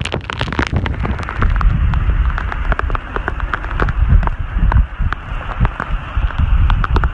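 Wind buffeting the microphone with a heavy, uneven low rumble, while many sharp, irregular crackles and taps from rain drops strike close by during a rainstorm.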